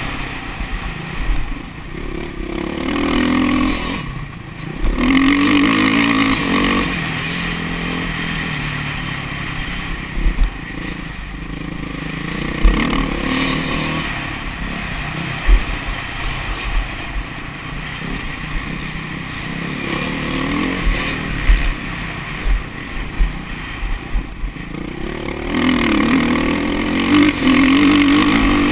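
Motocross bike engine revving up and falling back again and again as the throttle is opened and closed, with brief lulls and scattered low thumps.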